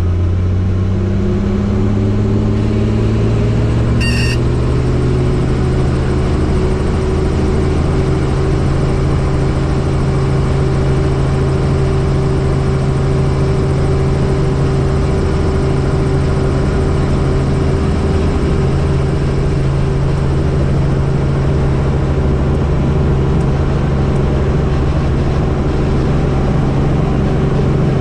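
Helicopter turbine and rotor running loudly with a deep steady hum; a whine rises in pitch over the first few seconds, then holds steady as the rotor comes up to speed. A short high beep sounds about four seconds in.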